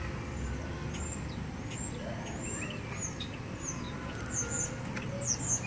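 Small birds chirping: a string of short, high, falling chirps, then from about four seconds in quick high double chirps repeating, over a low steady background rumble.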